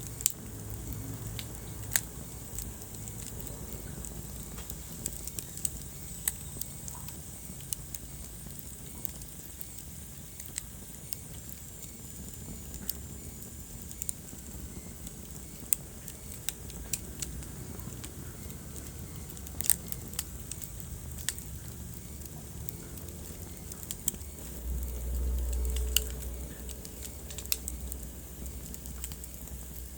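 Wood fire burning in a fireplace, crackling with sharp pops at irregular intervals over a steady low rumble of flame. The low rumble swells for a couple of seconds near the end.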